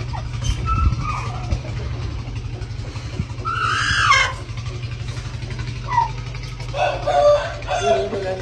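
Aseel rooster crowing once, about halfway through, over a steady low hum, with shorter calls near the end.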